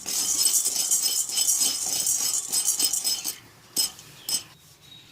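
Dry roasted gram rattling and scraping in a kadai as it is stirred, a dense rapid clatter that stops about three seconds in, followed by two sharp knocks.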